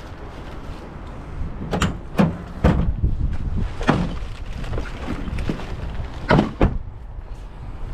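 Pickup truck being loaded: half a dozen irregular thumps and bangs as things go into the truck and its doors shut, over a low wind rumble on the microphone.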